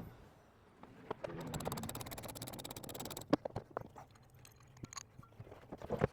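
Knocks and clatter from handling tools and parts: a rapid run of clicks lasting about two seconds, then scattered sharp knocks and taps.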